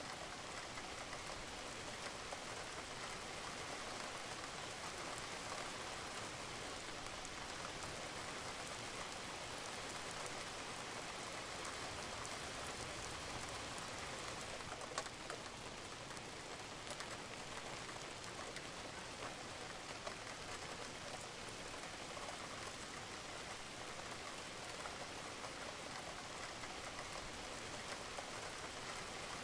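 Steady rain falling on a roof, an even hiss dotted with the ticks of individual drops.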